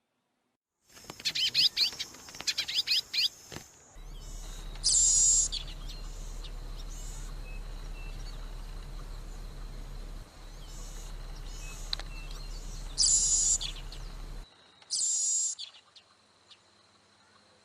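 Birds calling: a flurry of quick high chirps about a second in, then three short, very high-pitched calls spread over the rest, the middle part over a steady low hum.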